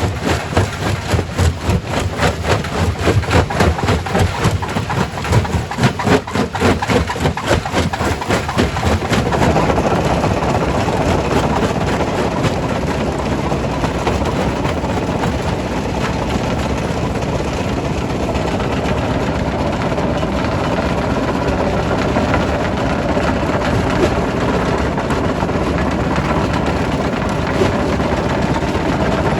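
Quarry primary rock crusher running and breaking stone: rapid, irregular knocking for the first nine seconds or so, then a denser, steadier crushing noise.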